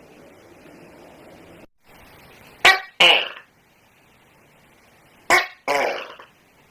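Tokay gecko calling its two-note "to-kek" call twice, each a short sharp note and then a longer, lower croak a moment later, the calls about two and a half seconds apart.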